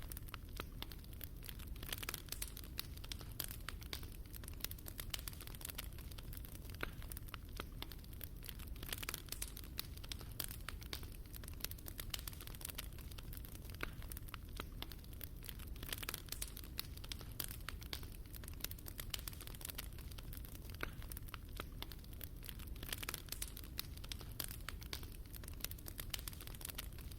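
Fire crackling in a fireplace: a constant, irregular run of sharp crackles and pops over a steady low rumble.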